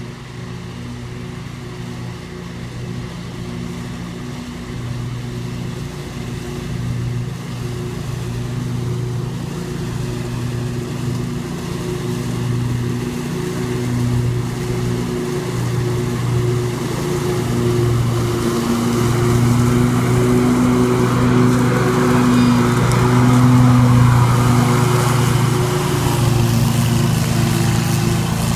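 Scag Tiger Cat II zero-turn mower running steadily at working speed while mowing and mulching leaves, its engine hum growing louder as it comes closer and loudest about three-quarters of the way through.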